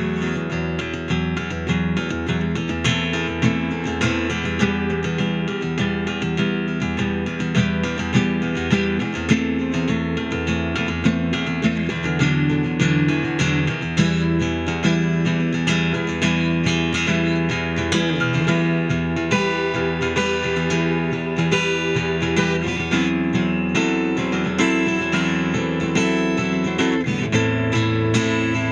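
Dean Exhibition thin-body acoustic-electric guitar playing an instrumental piece, strummed and picked with a steady pulse of note attacks.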